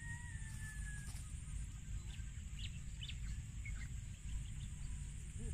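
A bird's long whistled call, falling slightly in pitch, through the first second, then a few short chirps, over a steady high hiss and a low rumble.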